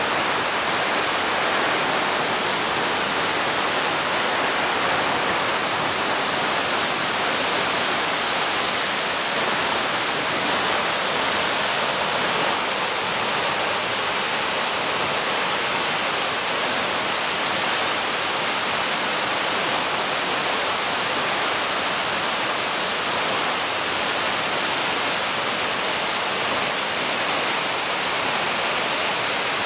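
Waterfall rushing steadily, a constant full hiss of falling water.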